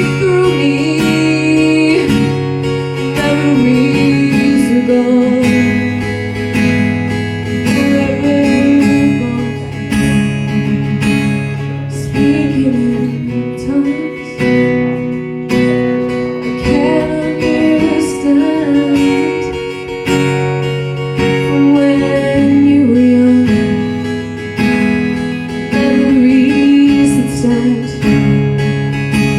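Acoustic guitar playing chords that change every few seconds, with a wavering melody line above them, in an instrumental stretch of a slow song.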